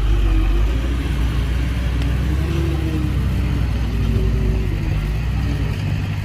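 Heavy diesel engine running loud and steady under load, a deep rumble whose lowest part thins out near the end.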